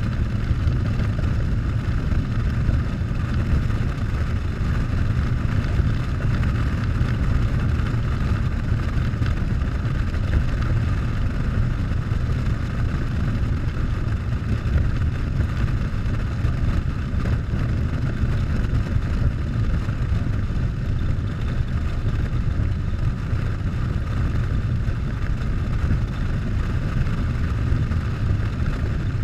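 Harley-Davidson Softail's V-twin engine running at a steady cruising speed under the rush of wind, as heard from a camera on the moving motorcycle. The level holds steady, with no revving or shifting.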